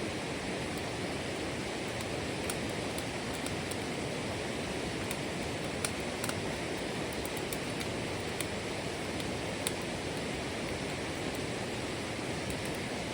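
Steady rush of running water, with a few faint scattered ticks.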